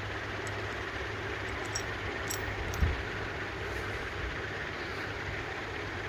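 A steady low hum, with a few faint light clicks and one short dull knock about three seconds in.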